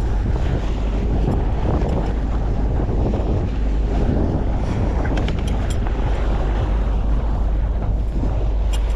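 A sailing yacht under engine power, running steadily, with wind buffeting the microphone and water washing past the hull. A few light clicks come about five seconds in and again near the end.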